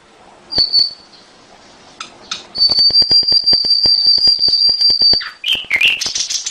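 Domestic canary singing: a short high note, then one long steady high whistle with rapid ticks running through it, ending in quick rising and falling notes.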